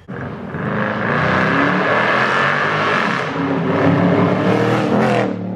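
Dodge Charger SRT8's 6.1-litre Hemi V8 accelerating hard along the street, loud, building over the first second and dropping away sharply about five seconds in.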